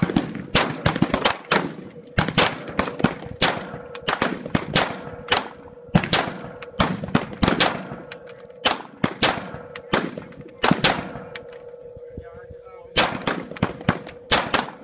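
Stag Arms Model 8 5.56 AR-15 rifle with a muzzle brake firing rapidly, about three to four shots a second, each with an echoing tail. A pause of about a second and a half near the end is followed by another quick string of shots.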